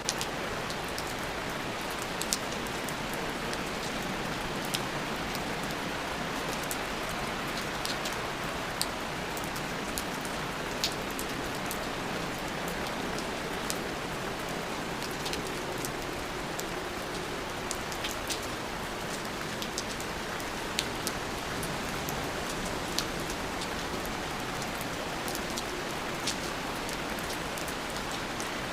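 Steady rain falling, with a continuous hiss and scattered sharp ticks of individual drops landing close by.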